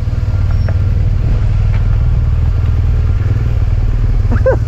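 BMW boxer-twin motorcycle engine idling with a steady low rumble. A voice starts near the end.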